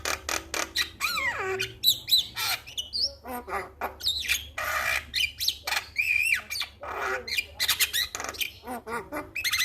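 Male Javan myna singing a varied, continuous song. It opens with a fast run of clicks, then mixes harsh rasping squawks with sliding whistled notes and rattles.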